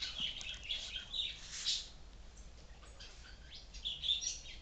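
Birds chirping: quick, high chirps, busiest in the first two seconds and again near the end.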